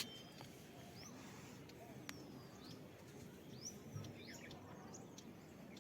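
Faint, scattered bird chirps, short sliding notes a few at a time, over a low steady background hiss.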